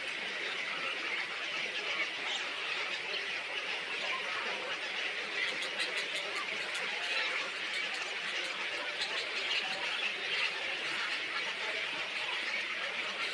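Dense, steady chatter of a flock of small birds, many high chirps and squeaks overlapping, with a run of sharper chips about six seconds in.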